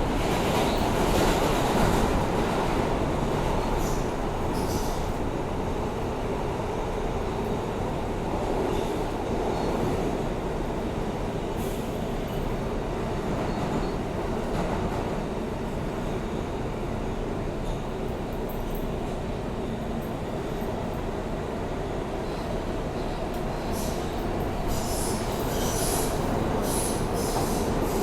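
R160A subway car running on the rails, heard from inside the car: a steady rumble of wheels and running gear, with high wheel squeals and screeches building near the end.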